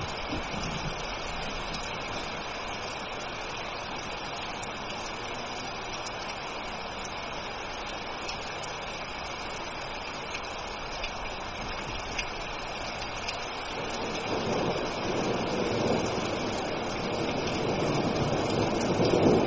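Steady rain falling as an even hiss. About two-thirds of the way through, a low thunder rumble builds and grows louder.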